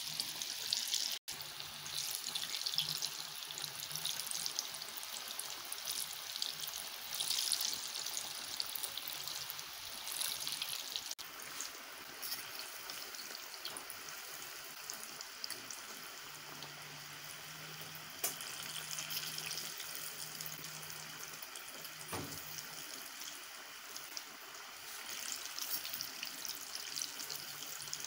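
Flour-coated kebab balls deep-frying in hot oil: a steady sizzling hiss with fine crackles.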